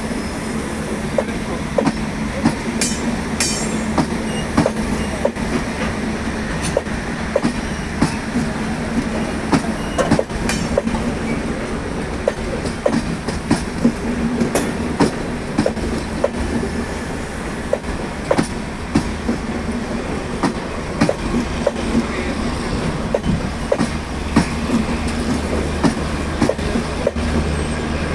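Passenger train's coaches rolling steadily on the rails, wheels clacking sharply and irregularly over rail joints above a constant rumble.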